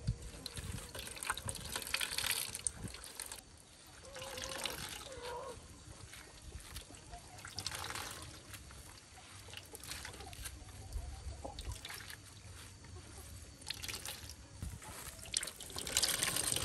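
Water trickling and splashing in irregular spurts.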